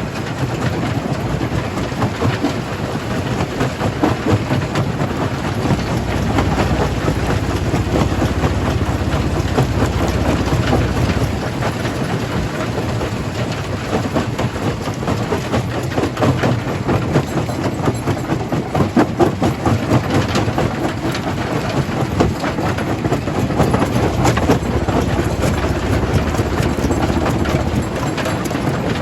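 Stone jaw crusher running and crushing rock: a dense, constant cracking and rattling of stones over the low drone of the machine.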